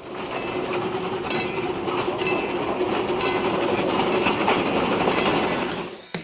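A train running on rails, with a steady tone under a sharper accent that comes about once a second. It fades out just before the end.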